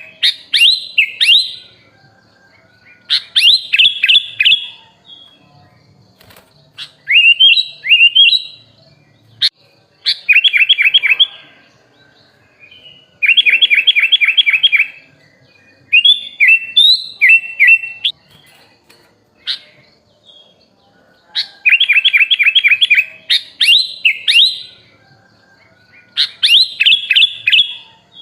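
Sooty-headed bulbul (kutilang) singing: short phrases of quick repeated chirping notes and brief whistled glides, coming every couple of seconds with pauses between.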